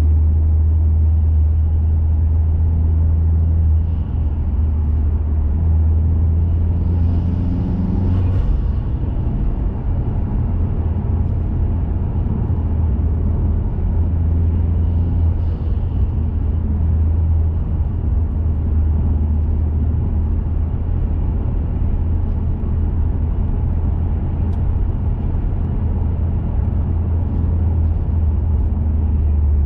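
2021 Mazda 3 Turbo hatchback's turbocharged four-cylinder with a CorkSport cat-back exhaust, running on the road with a steady low exhaust drone over tyre and road noise.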